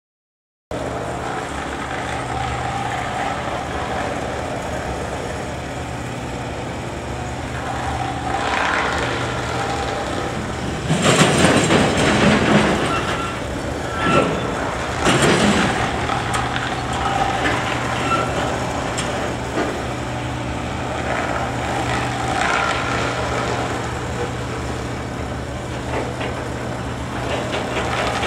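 EH500 electric locomotive and its container freight wagons starting off from a stand: under a steady low hum, a run of loud clanks and bangs from about 11 to 16 seconds in as the couplers take up slack along the train, the impact sound of a freight train's departure.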